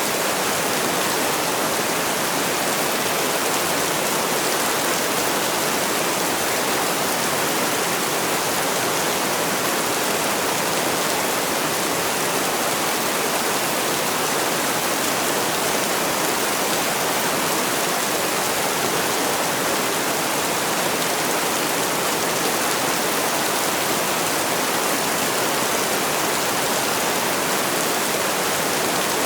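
Heavy rain falling steadily, an even, unbroken hiss with no single drops, thunder or changes standing out.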